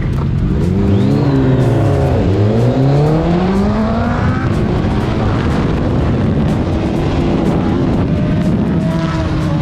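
Sport motorcycle engine accelerating hard: the revs climb, drop at an upshift about two seconds in, and climb again until about four seconds in, then settle into steadier running with wind noise. It is a hard acceleration to try to lift the front wheel.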